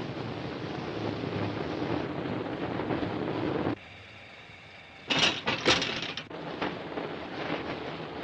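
Steam train running, a steady rumble that cuts off abruptly about halfway through. A short quieter stretch follows, then a cluster of loud sharp bursts before the running noise comes back.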